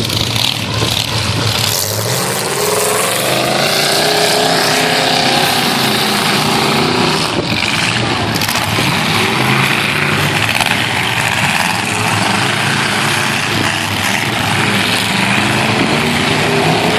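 Several half-ton pickup truck engines revving hard and running at high throttle, their pitch rising in the first few seconds, as a demolition derby heat starts.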